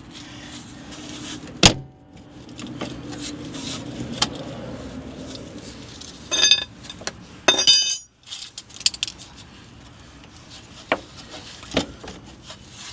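Metal hand tools and parts clinking during brake work: a sharp knock about two seconds in, two brief metallic rattles a second apart midway, and a few lighter taps near the end.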